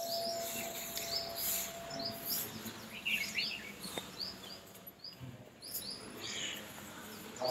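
Small birds chirping in quick, short calls again and again. A faint steady tone dies away in the first two seconds.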